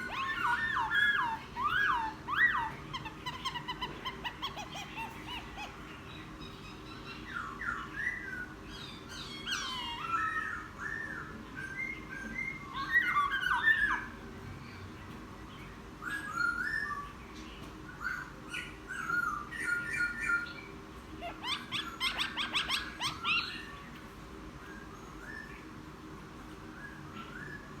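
A newly caught caged laughingthrush singing a varied, chattering song of quick whistled phrases in spurts with short pauses. This is a wild-caught bird starting to sing in captivity.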